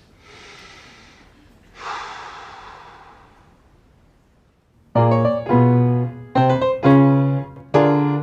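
Piano played with loud, separately struck chords starting about five seconds in. Before it come two soft breathy swells, like drawn breaths.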